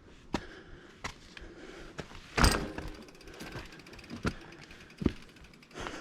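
Bicycle clattering over a rough trail: a string of sharp knocks and rattles, the loudest about two and a half seconds in.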